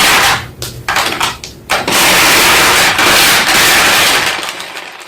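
White school chalk block being crunched: a few sharp crunches in the first second or two, then a dense, continuous crunching that fades away near the end.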